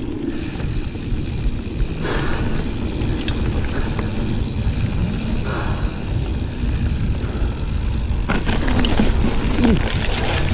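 Riding noise from a Giant Fathom 29 mountain bike on a dirt trail: a steady low rumble of tyres and wind on the microphone, with scattered clicks and knocks from the bike over the ground. A few short sounds of the rider's breath or voice come near the end.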